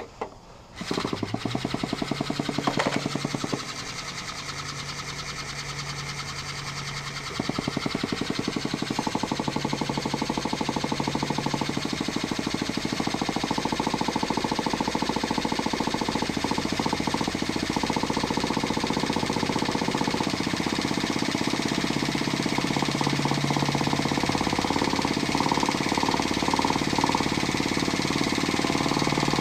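Traxxas 3.3 two-stroke nitro engine running with a fast, even buzzing beat, coming in about a second in, dropping lower for a few seconds, then running steadily again. The carburetor is still being tuned.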